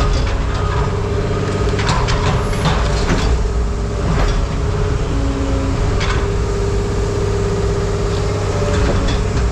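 A heavy machine's engine running steadily, with irregular clanks and clatters of scrap metal being moved and packed into a bin.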